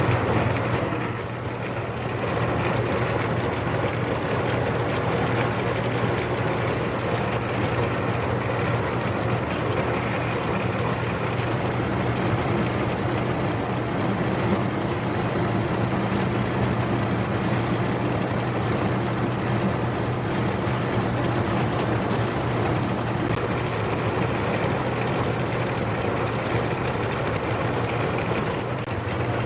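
Metal lathe running steadily, a constant low hum with an even mechanical hiss, as it turns a large workpiece.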